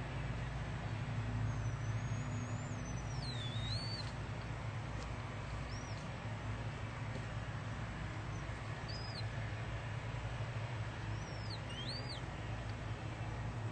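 Small birds chirping, short high thin calls every few seconds, over a steady low hum.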